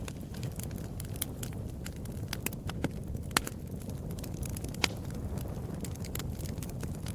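Fire burning in a fireplace: a steady low rumble with frequent sharp crackles and pops, two louder pops about three and a half and five seconds in.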